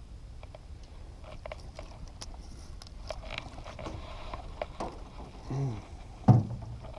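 Scattered light clicks and crackles of fishing gear being handled in a small boat, then a short voiced hum and a sharp knock near the end, the loudest sound.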